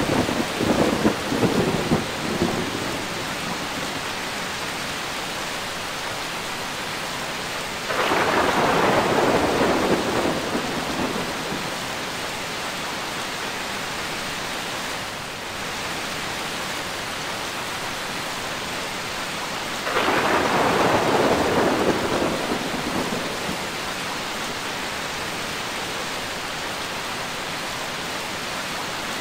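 Steady rain falling, with three rolls of thunder: one at the start, one about 8 seconds in and one about 20 seconds in, each breaking suddenly and fading over two or three seconds.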